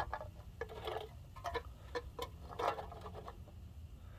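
Irregular light clicks and taps, a few a second, with no steady rhythm.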